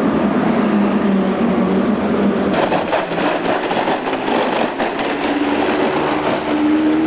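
Engines running: a steady engine hum, then, from a sudden change about two and a half seconds in, a rougher, clattering engine sound as a vintage speedway car is pushed along the dirt track by a utility truck.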